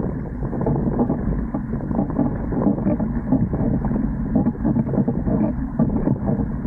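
Wind buffeting the microphone of a camera aboard a Dart 18 sailing catamaran, a steady rushing noise that surges and falls.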